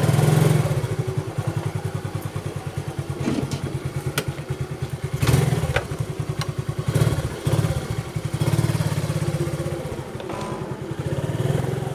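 Motorcycle engine running as the bike is ridden, with a rapid even pulse that swells and eases with the throttle. A few short sharp clicks near the middle.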